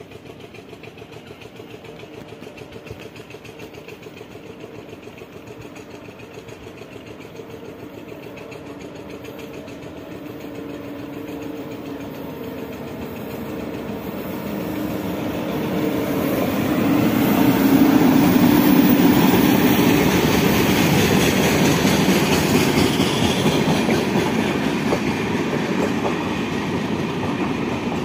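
Indian Railways express train hauled by an electric locomotive, approaching and passing close by. A low rumble with a steady hum grows louder to a peak about two-thirds of the way through, then the coaches' wheels keep rumbling along the rails.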